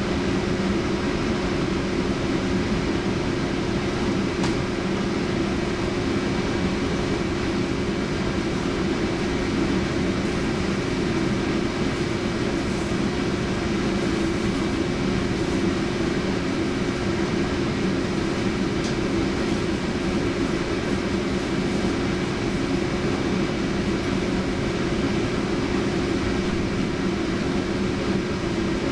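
Inside a Centram low-floor tram on the move: steady running noise of the wheels on the rails with a constant electrical hum.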